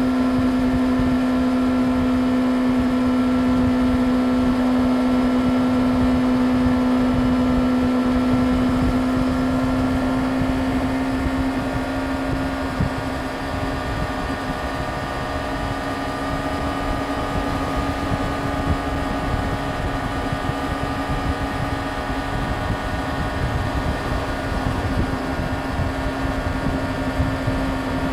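Yamaha YZF-R6's inline-four engine running at steady high revs while the motorcycle cruises, with rushing wind and road noise beneath it. The sound eases slightly about twelve seconds in.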